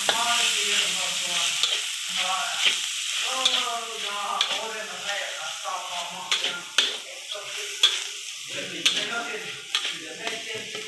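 Chopped meat frying in a hot steel wok, a steady sizzle while a metal spatula stirs it, with sharp scrapes and clicks of the spatula against the wok, more frequent in the second half.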